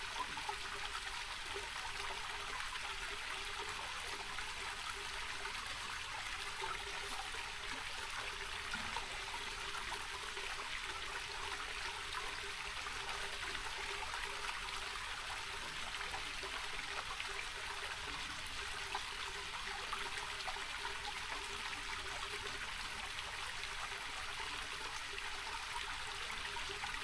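Small rocky mountain creek running and trickling steadily over stones.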